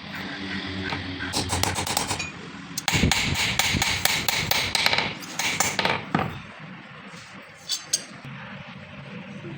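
Steel being struck with a hammer on an anvil in three quick runs of blows, each with a bright metallic ring. It goes quieter after about six seconds, with a couple of light taps near the end.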